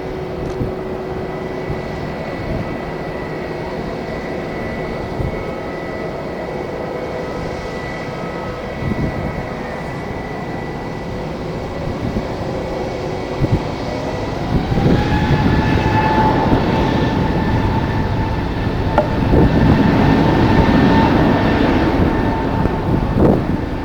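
Jet airliner engines whining at a steady pitch, then about 14 seconds in the whine rises in pitch and the sound grows louder as the engines spool up. Wind buffets the microphone.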